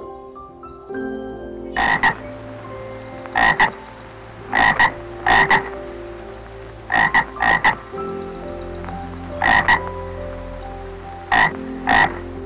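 An animal calling in short double notes, one pair every one to two seconds, about eight pairs in all, over a steady low hum.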